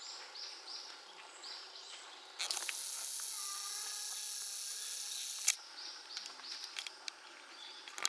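Outdoor natural ambience with short, high chirping calls repeating throughout. A loud, high buzz starts about two and a half seconds in and stops abruptly about three seconds later.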